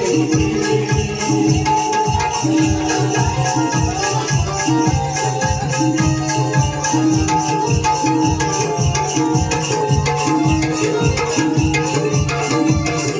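Instrumental folk music: a hand drum plays a fast, steady rhythm under held melody notes that come and go.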